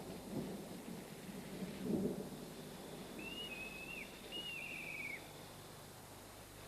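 Night-time outdoor ambience: a steady low rumble and hiss like distant thunder and rain, swelling briefly about two seconds in, with two short, high, wavering animal calls a little past the middle.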